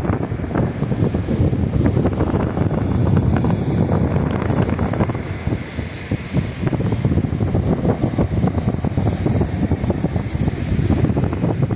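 Strong wind buffeting the microphone in gusty, rumbling bursts, with lake surf beneath it. The gusts ease briefly about halfway through.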